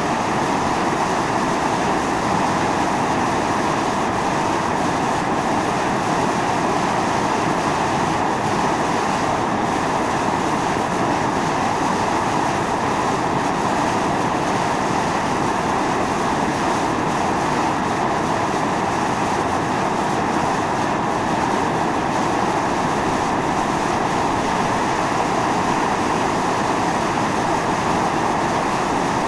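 Volcanic fumarole: steam and gas jetting steadily out of a vent with a continuous, loud hiss.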